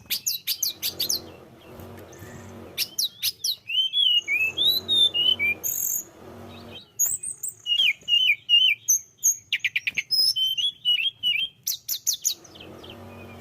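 A tledekan gunung songbird singing a fast, varied song of sharp chirps, quick up-and-down sweeps and short rapid trills, nearly without pause, with a low hum underneath in places.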